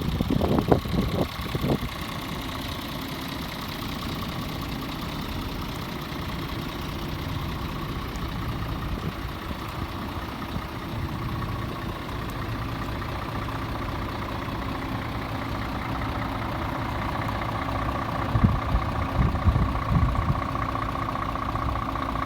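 Scania R 450 truck's 13-litre inline-six diesel idling steadily, with a few low thumps in the first couple of seconds and again near the end.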